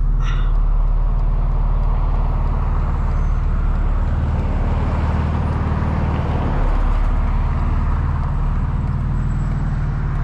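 Straight-piped BMW M4 Competition's twin-turbo inline-six running at low, steady revs, a steady low exhaust note heard from inside the car.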